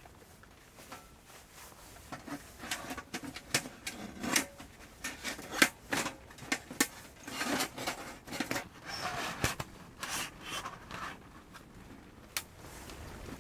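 Irregular handling sounds: a run of light knocks and clicks with rubbing and scraping between them, busiest in the middle and dying away near the end.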